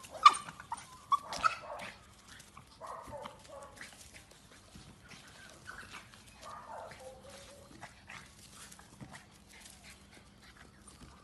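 Cockatoo imitating a dog's bark: a quick run of short barks in the first second and a half, then a few softer, scattered calls.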